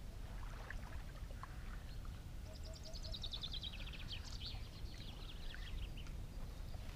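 A small songbird sings a quick run of high notes that fall steadily in pitch, lasting about three seconds from a couple of seconds in. Behind it is a low, steady outdoor rumble.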